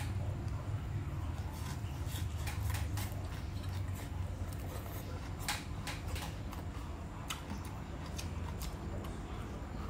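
Crisp crunching and snapping of raw water chive stems being bitten, chewed and broken, heard close up as an irregular string of sharp clicks over a steady low hum.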